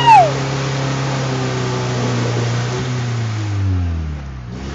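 Red Toyota 4x4's engine held at high revs as its bald tires spin in deep mud, with a steady churning hiss; near the end the revs drop away, then begin to climb again. A short, loud high squeal sounds right at the start.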